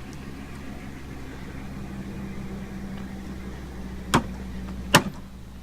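Two sharp, loud hammer blows on a car's damaged metal body, about a second apart near the end, over a steady low hum.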